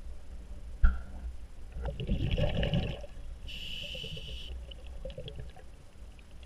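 Water sloshing and bubbling close to the camera, with a sharp knock about a second in and a short hiss near the middle.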